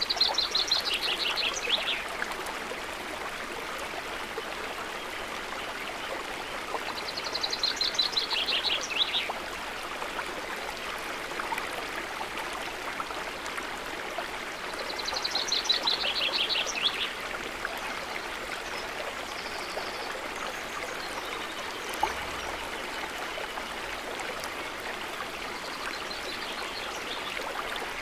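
Stream running with a steady rush of water. A songbird sings a short trilled phrase three times, about every seven or eight seconds, each falling in pitch over about two seconds.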